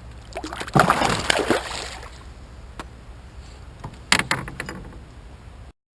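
Water splashing and sloshing beside a kayak, in two bursts about three seconds apart, the first longer and louder.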